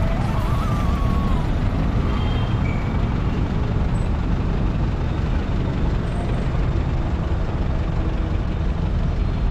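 Tata Sumo Gold's diesel engine idling with a steady low rumble, smooth and even.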